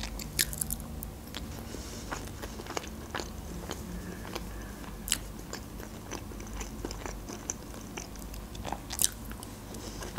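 Close-miked eating sounds: chewing and small wet mouth clicks on a mouthful of mashed potato and hearts in tomato sauce, then a bite of fresh tomato salad. A few sharper clicks stand out, the loudest about five and nine seconds in.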